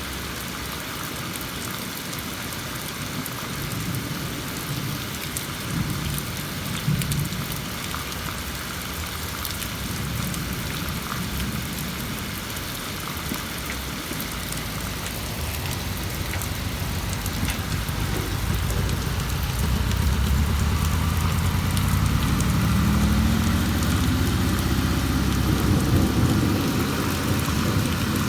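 Steady heavy rain, with a long low rumble of thunder that builds past the middle, is loudest for several seconds and eases near the end.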